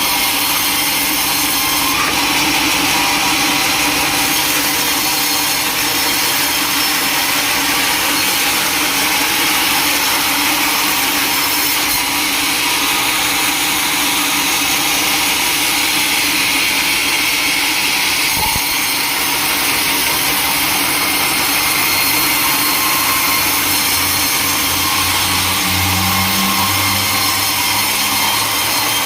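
Sawmill machinery running with a loud, steady noise, typical of a log saw at work. A low hum joins in near the end.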